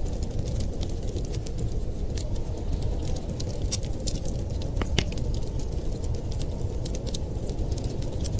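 Wood fire crackling, with frequent small pops over a steady low rumble and one louder pop about five seconds in.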